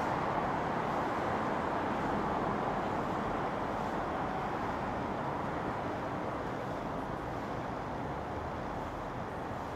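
JR Kyushu 819 series DENCHA battery-electric train pulling away, a steady running noise that slowly fades as it recedes.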